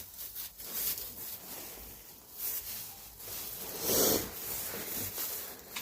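Quiet rustling and shuffling of newborn lambs moving about in their pen, with one louder noisy rustle about four seconds in.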